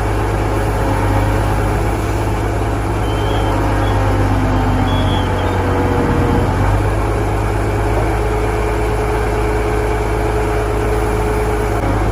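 Heavy industrial machinery running steadily: a loud, continuous low hum with a faint steady whine above it.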